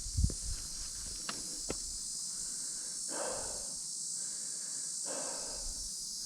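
A steady, high-pitched chorus of grasshoppers and crickets buzzing in dry grassland. A few footstep clicks sound in the first couple of seconds, and two short soft rustles come about three and five seconds in.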